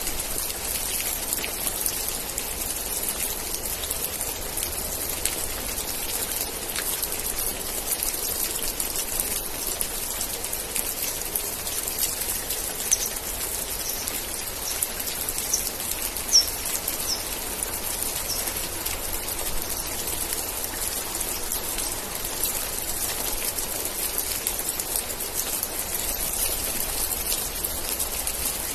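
Steady rain, a dense even hiss with many individual drops ticking. About halfway through comes a short run of about seven quick high chirps.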